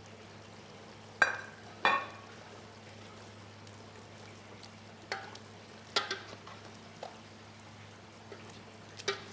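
Vegetables frying in a pan while being stirred, with a steady hiss and about five sharp knocks of the spoon against the pan, the loudest about a second in. A steady low hum runs underneath.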